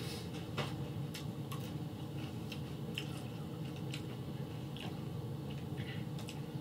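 A person chewing crunchy tortilla chips, with irregular crisp crunches and clicks.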